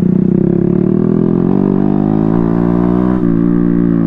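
Small motorcycle engine running while riding, its pitch climbing slightly and then dropping suddenly about three seconds in.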